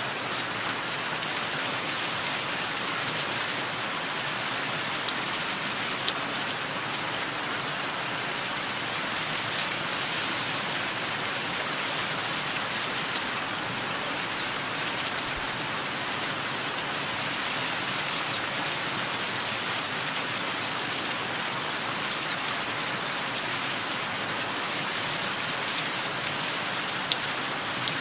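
Steady rain falling, with small birds chirping over it: short, high chirps, often two or three together, every second or two.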